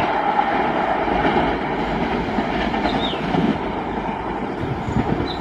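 Indian Railways express passenger train running on the rails at speed, a steady rumble of wheels with clatter over the rail joints.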